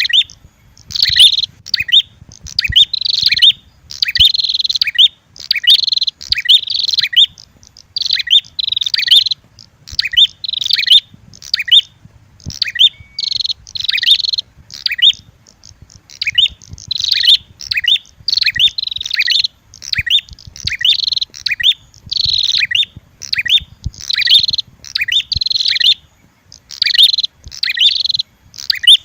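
Prenjak birds calling in a rapid, high-pitched run of chirping phrases, one after another about every second with brief pauses: a recorded lure call mixing red-headed prenjak song with agitated female prenjak calls.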